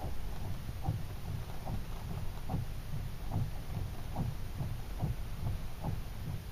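Strong storm wind buffeting the microphone: a constant low rumble broken by irregular low thumps, several a second.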